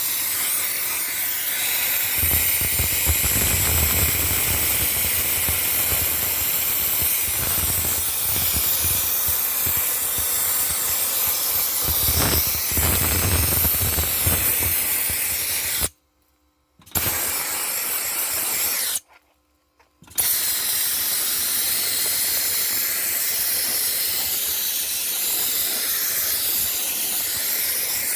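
Dry-ice blasting gun spraying a jet of compressed air and dry-ice pellets, a loud, steady hiss as it cleans an engine bay. The hiss cuts off abruptly twice for about a second, a little past halfway.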